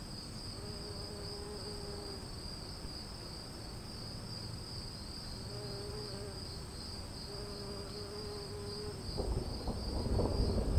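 Stormy outdoor ambience: a steady high chirring of insects over a low rumble, with a droning buzz that comes and goes twice. Near the end, thunder begins to roll in, louder.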